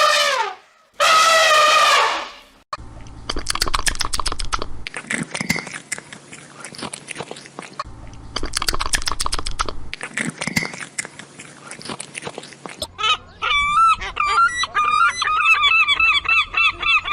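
Animal sounds from several clips in turn: two short pitched calls, then about ten seconds of rapid clicking and rustling, then from about thirteen seconds a fast string of short, repeated pitched calls.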